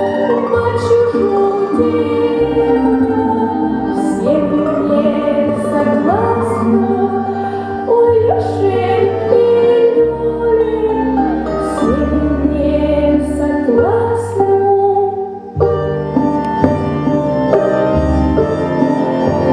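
Music: a Russian folk song sung by voices with instrumental accompaniment. About fifteen seconds in, the singing breaks off and the instruments play on.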